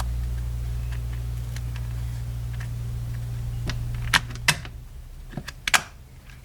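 Scattered light clicks and taps of small plastic drill parts being handled and fitted, with a few sharper clicks around four to six seconds in. A steady low hum underneath fades out about four and a half seconds in.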